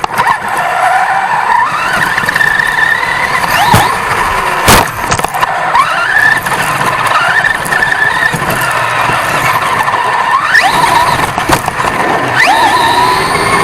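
1/10-scale RC off-road truck's motor and drivetrain whining, heard from a camera on the truck. The whine rises in pitch again and again as the truck accelerates, with a few sharp knocks from the chassis hitting bumps.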